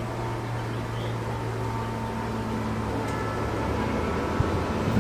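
An approaching train running with a steady low drone that grows louder toward the end, with a sharp knock near the end.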